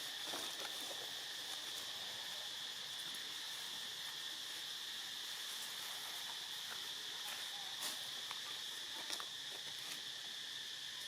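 Insects droning steadily at one high pitch, with a few faint short ticks or rustles, one louder about eight seconds in and another about nine seconds in.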